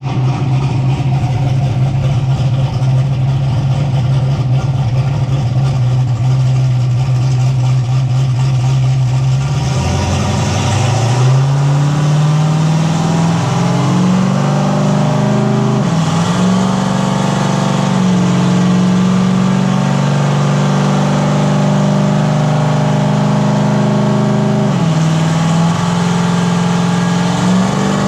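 Turbocharged 427-cubic-inch Gen V LT V8 running under load on a chassis dyno. It holds a steady speed, climbs in pitch about ten seconds in, then holds higher with two brief dips.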